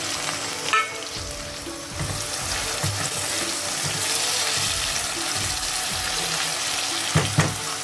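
Sliced onions and chopped tomatoes sizzling in hot oil in a metal pan while a silicone spatula stirs them. There is a brief ringing clink about a second in and two sharp knocks near the end.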